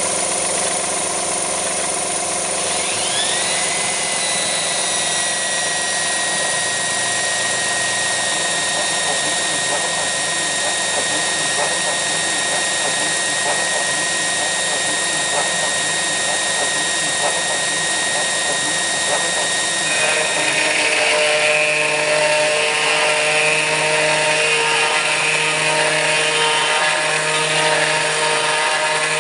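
Kress FME-1050 router spindle on a CNC machine running with a steady high whine, its pitch rising and settling about three seconds in as it spins up. About twenty seconds in the sound grows louder and rougher with a regular pulsing, the cutter milling aluminium.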